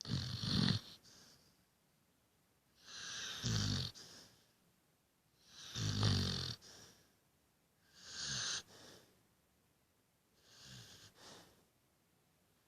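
Rottweiler-beagle mix dog snoring in its sleep: five snores about every two and a half seconds, each a low buzzing snore with a breathy hiss, followed by a softer breath. The last snore is fainter.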